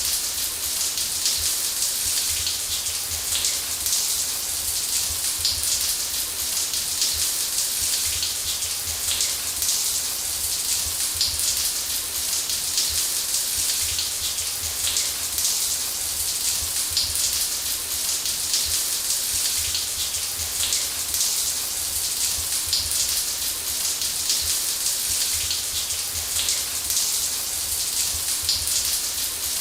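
Shower running steadily: a constant hiss of water spraying and pattering on a surface, with a low rumble underneath.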